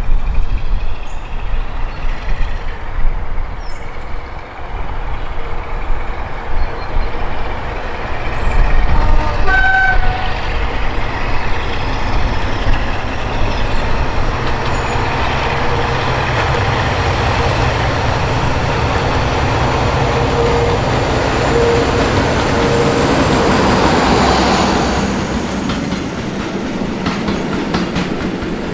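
Preserved British Rail diesel locomotive working under power, its engine sound building to a peak about 24 seconds in and then easing as it passes. There is a short horn toot about 10 seconds in.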